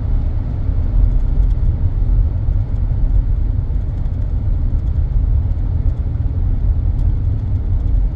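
Steady low rumble of a car being driven, heard from inside: engine and road noise.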